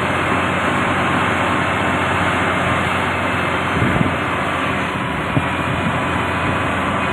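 Heavy earthmoving machine's engine running steadily under load, with a couple of faint knocks partway through.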